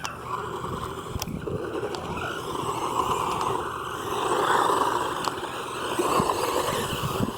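Hosim S911 RC truck's electric motor whining, rising and falling in pitch and loudness as the throttle changes, with its tyres scraping over the ground.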